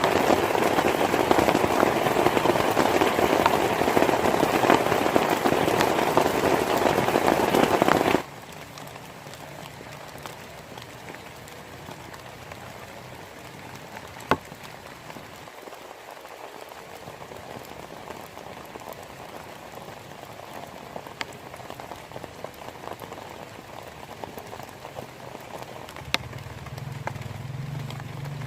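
Heavy rain falling as a loud, dense hiss. It cuts off abruptly about eight seconds in, leaving a much quieter faint hiss with a few sharp clicks.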